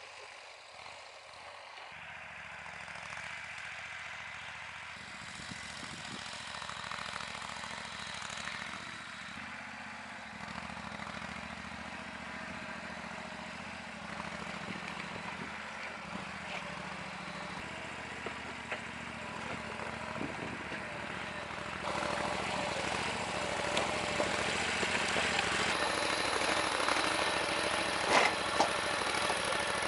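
A small engine running steadily, growing gradually louder and stepping up about two-thirds of the way through, with a few sharp knocks near the end.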